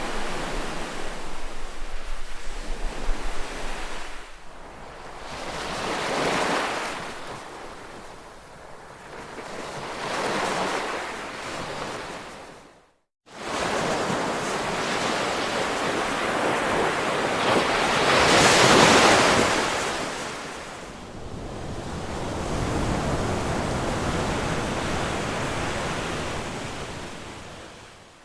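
Ocean waves breaking and washing up the shore in slow swells a few seconds apart, the largest surge about two-thirds of the way through. The sound cuts out completely for about half a second near the middle.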